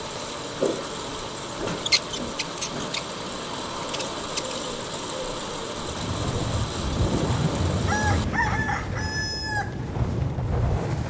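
A bird calling: a short run of loud, pitched notes with strong overtones, under two seconds long, about eight seconds in. Under it is a steady hiss with a few sharp ticks early on, and a low rumble from about six seconds in.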